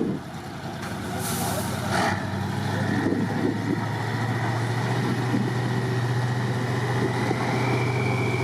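Heavy truck's diesel engine running under load, its pitch and loudness slowly rising, with a short burst of air hiss about a second in.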